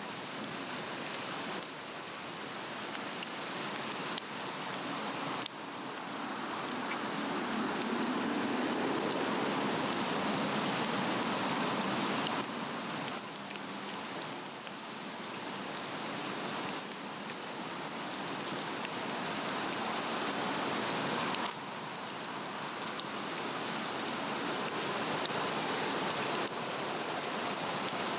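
Swedish torch fire, a cedar log with cross-cut slots burning on a fire stand, crackling steadily with many small pops. Its level steps up or down abruptly a few times.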